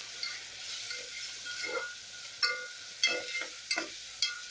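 A spoon stirs and scrapes chopped onions, tomatoes and green chillies frying in oil in a metal pot. There is a steady sizzle and about six short scrapes against the pot.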